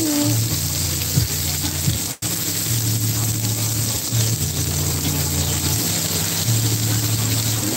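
Meat patties sizzling on an electric griddle while a plastic spatula presses and scrapes them, with a couple of short clicks. A low hum comes and goes underneath, and the sound cuts out for an instant about two seconds in.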